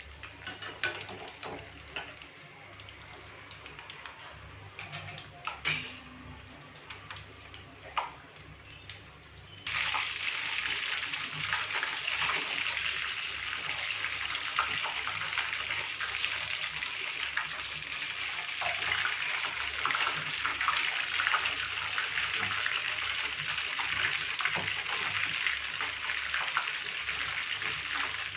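Chicken momos deep-frying in oil in a kadhai: a steady sizzle. For the first ten seconds it is faint, with a few sharp utensil clinks against the pan, then it turns suddenly much louder into a dense crackling that carries on.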